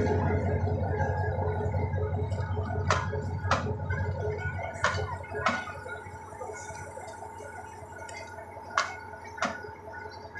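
Passenger train rolling slowly along a platform. A low rumble fades away, and wheels clack over rail joints in pairs about half a second apart, every few seconds.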